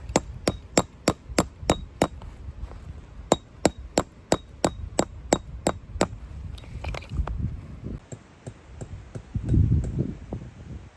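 Hammer striking a metal tent peg in quick, even blows, about three a second, in two runs with a short pause between, then a few lighter taps. A dull low thump comes near the end.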